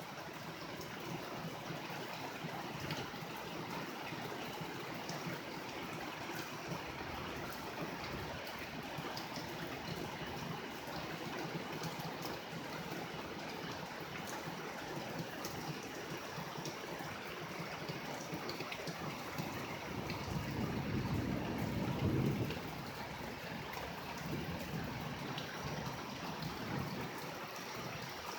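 Steady rain during a thunderstorm. A low rumble of thunder builds about twenty seconds in and ends a couple of seconds later.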